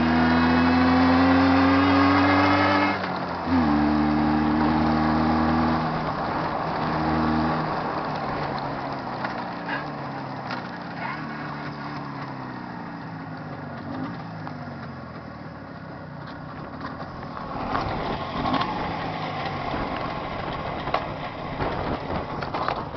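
Jawa 634 two-stroke twin motorcycle engine, freshly rebuilt and being run in, held at high revs, then throttle shut off about three seconds in, opened again and shut off near six seconds, with a short blip. The engine speed then falls away and the sound fades, growing louder again near the end.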